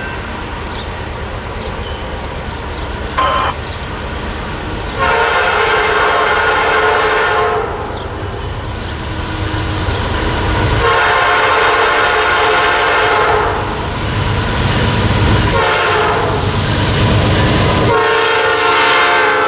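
A locomotive's multi-note air horn sounding the grade-crossing pattern after a brief toot: long, long, short, long. It plays over the rumble of the approaching train, and the last long blast drops in pitch as the train goes by.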